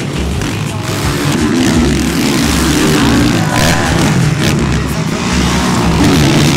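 Motocross motorcycle engines revving, their pitch rising and falling as the bikes race on the track.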